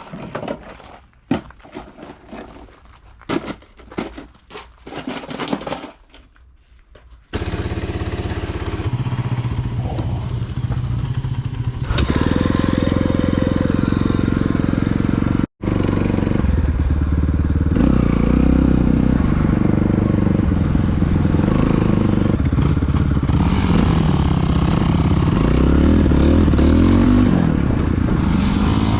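A few scattered clicks and knocks, then from about seven seconds in a dirt bike engine running, its pitch rising and falling with the throttle in the later part.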